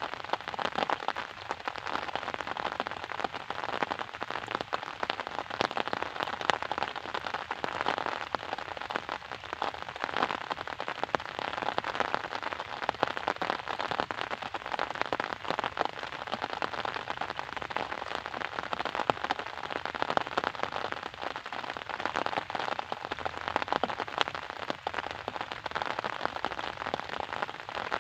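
Steady rain falling, a dense patter of many individual drops hitting a surface.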